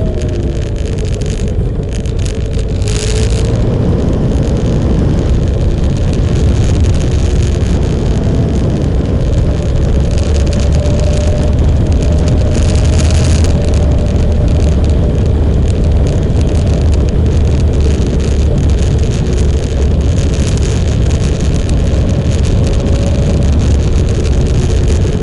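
Motorcycle engine running steadily under way, with wind rushing past. There are brief swells of hiss about three and thirteen seconds in.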